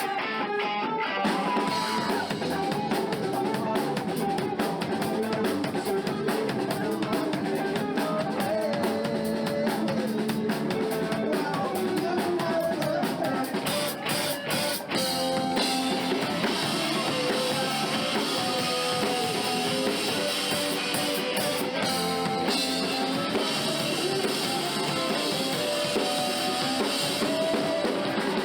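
Live rock band playing a song: drum kit and guitar.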